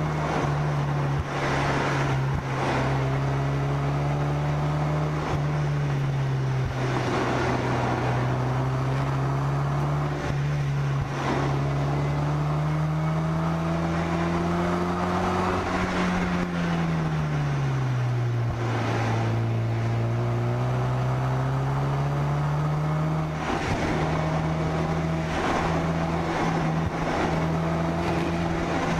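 Car engine running while driving, its note rising and falling with the throttle, easing down for a while about two-thirds through, then stepping abruptly back up.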